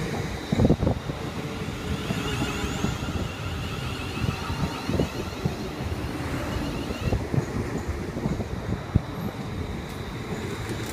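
Low rumble of a passing train with wind buffeting the microphone and scattered knocks, the loudest just under a second in.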